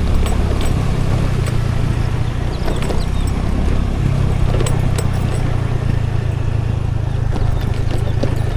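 A scooter riding along, heard from a camera mounted on it: a steady low rumble of engine and wind, with scattered light clicks and rattles.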